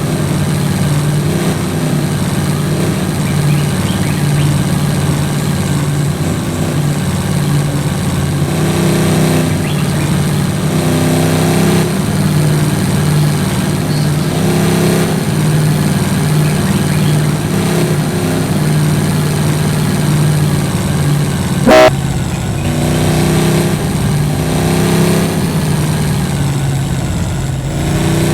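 Vehicle engine running while driving, rising in pitch again and again as it revs, with a very short horn toot about 22 seconds in.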